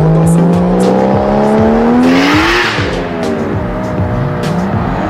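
Toyota Supra MK4 engine revving hard under acceleration, its pitch climbing steadily for about two and a half seconds, then a burst of hiss as it comes off the throttle, followed by lower, falling engine tones as the car goes by.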